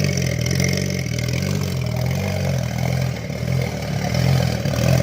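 Toyota 1JZ-GTE twin-turbo 2.5-litre inline-six running steadily at idle on a standalone ECU, with a slightly uneven pulse in its note.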